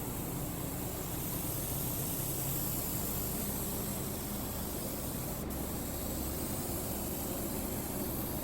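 Steady hiss of compressed air from a paint spray gun laying down base coat, with a momentary break in the high hiss about five and a half seconds in.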